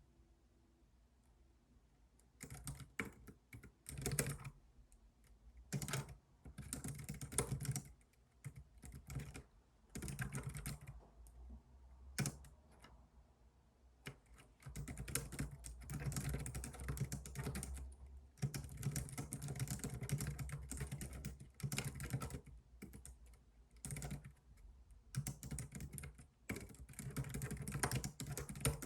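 Typing on a computer keyboard: runs of rapid keystroke clicks in bursts of a second or a few seconds, with short pauses between, starting about two seconds in.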